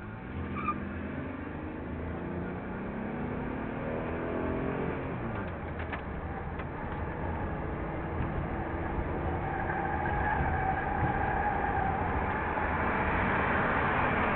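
Car engine launching from a standstill and accelerating hard, its pitch climbing for about five seconds, dropping at an upshift, then climbing again as it grows louder. Heard from inside the car's cabin.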